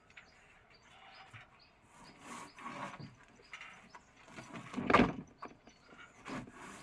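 Knocks and scraping from roofing work, with one loud thump about five seconds in.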